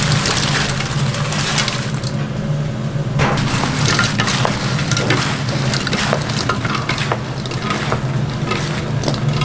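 Busy clatter and crackle of food being handled and scooped at a street food stall, with many quick sharp clicks and scrapes over a steady low hum.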